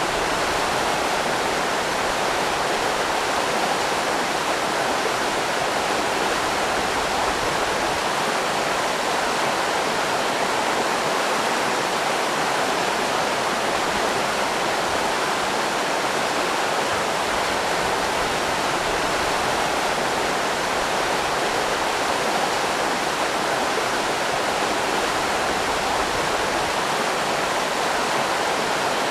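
River rapids rushing steadily, an even unbroken sound of churning water.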